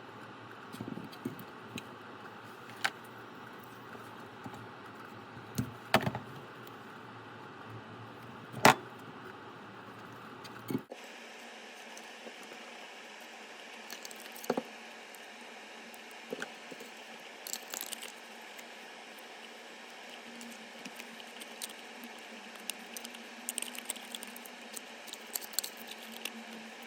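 Scattered small clicks, taps and clinks of tools and small parts being handled, over a steady low room background. The background changes abruptly about 11 s in, after which a faint steady hum sits under the handling sounds.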